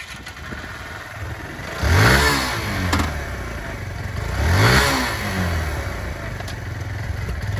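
Fuel-injected 125 cc single-cylinder engine of a Kawasaki Z125 Pro minibike running, blipped twice: the pitch rises and falls about two seconds in and again near five seconds, settling back to a low idle between.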